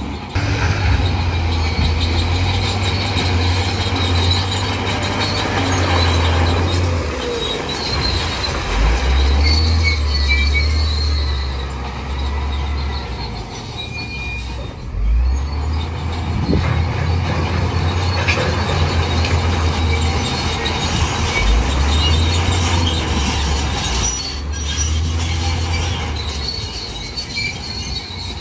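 Crawler bulldozer's diesel engine running under load that rises and falls every few seconds, with its steel tracks squealing as it pushes through mud.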